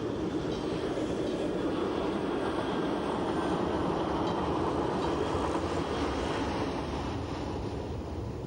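Appenzeller Bahn metre-gauge train running along the track, a steady rumble with no clear beat of the rail joints.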